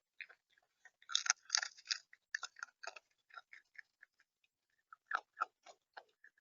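Irregular sharp clicks and cracks of seed being pecked and cracked at a bird feeder, coming in two clusters with short pauses between them.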